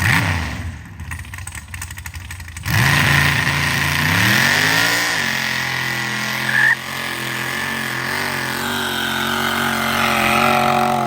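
Turbocharged, methanol-fuelled mega truck engine launching on dirt. After uneven lower revving, it goes to full throttle about three seconds in, with the revs climbing and then held high and steady under load for several seconds.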